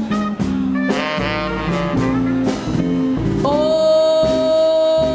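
Live swing band with tenor saxophone, bass and drums playing a short instrumental fill between the singer's lines. About three and a half seconds in, a long note comes in and is held steady.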